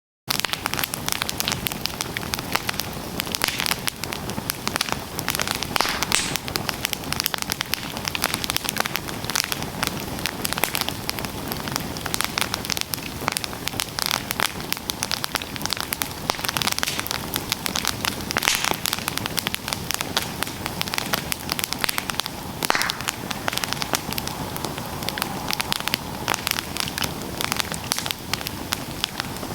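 Campfire burning with steady dense crackling and a few louder pops of burning wood.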